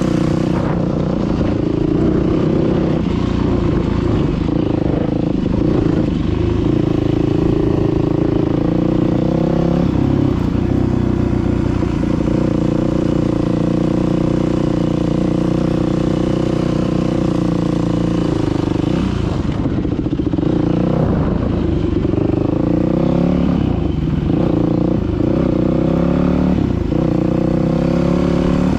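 Dirt bike engine running under way, its pitch holding steady for most of the time and then rising and falling several times in the last third as the throttle is worked.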